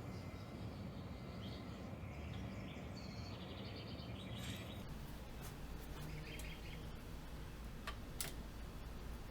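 Birds chirping over steady background noise for the first half. Then the chirping stops, a low steady hum takes over, and two sharp clicks sound close together near the end.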